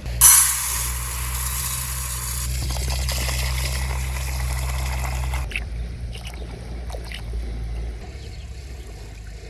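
Fish going into hot oil and frying with a loud, steady sizzle that starts suddenly and dies down after about five seconds, over a low steady hum.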